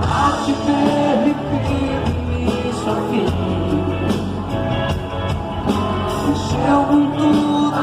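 Live band playing a pop-rock song on a concert sound system, with singing.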